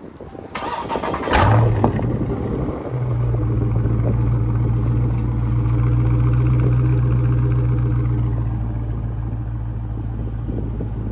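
Dodge Scat Pack's 392 V8 starting up. The starter cranks briefly, the engine fires with a loud flare of revs, then settles into a steady high idle that slowly eases down.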